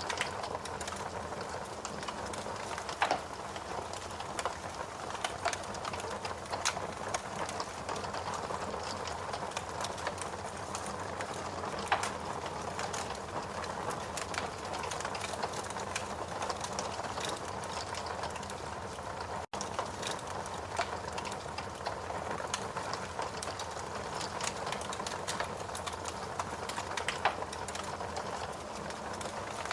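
Steady rain with wood crackling in a fireplace, a few sharper pops standing out now and then. The sound cuts out for a split second about two-thirds of the way through.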